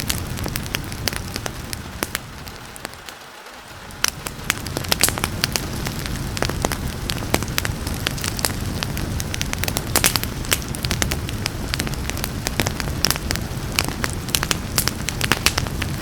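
Wood fire crackling with frequent sharp pops over a steady rain hiss. The sound drops away briefly about three seconds in, then comes back with a sharp pop.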